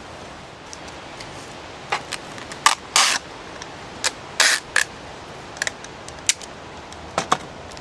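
Plastic bubble wrap crackling: a scatter of sharp snaps and clicks with two short crinkling bursts a few seconds in.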